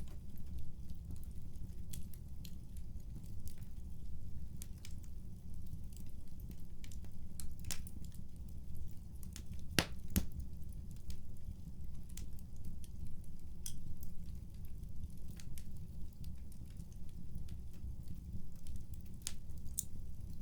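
Fireplace fire crackling: irregular sharp pops and snaps over a steady low rumble, with the loudest pair of pops about halfway through.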